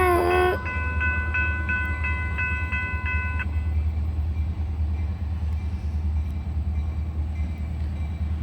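Diesel train horn sounding its last note, which ends about half a second in, then a railroad bell dinging about three times a second until it stops a few seconds in. Over this the train's low rumble runs steadily.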